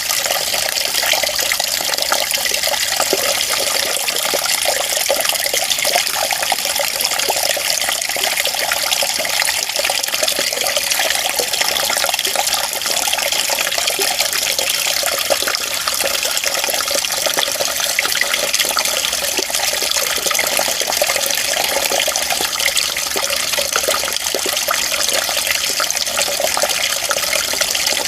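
Running water flowing steadily without a break: a constant splashing rush, its sound sitting mostly high with little low rumble.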